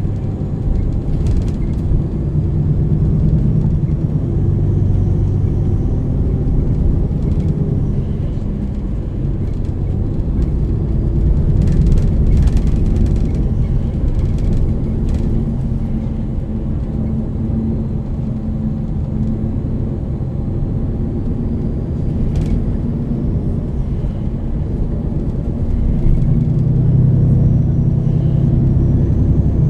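MAN Lion's City NL 323 city bus's six-cylinder diesel engine and ZF EcoLife automatic gearbox running under way, heard on board. It is a steady drone whose pitch rises and falls with speed and gear changes, with a few light rattles, and it swells louder near the end as the bus accelerates.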